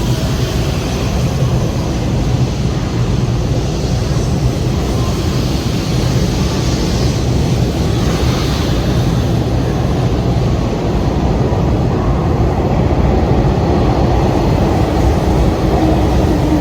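Electric train running, a loud steady rumble. Near the end a motor whine comes in and slowly falls in pitch.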